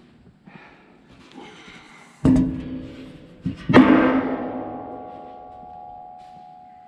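Metal struck hard against metal three times: a loud hit, a light one, then the loudest, each leaving a clear ringing tone that fades slowly over about three seconds.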